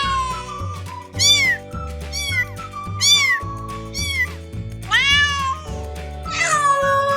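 Cat meowing about five times, short calls that rise and fall in pitch, with a longer drawn-out meow near the end, over background music with sustained low chords.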